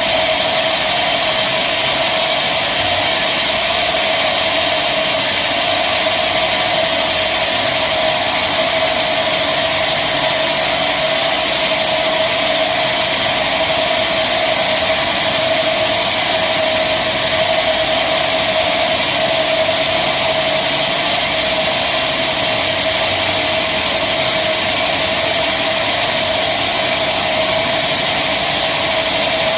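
Sawmill machinery running steadily, with one constant whine over a noisy mechanical hum and no change in level throughout.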